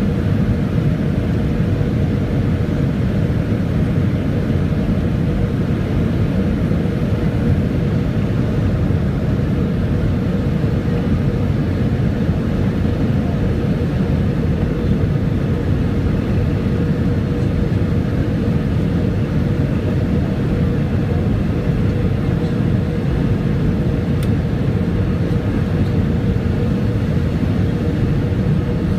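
Steady cabin noise aboard a Boeing 757-200 airliner: a constant rumble of engines and airflow with a steady hum running through it.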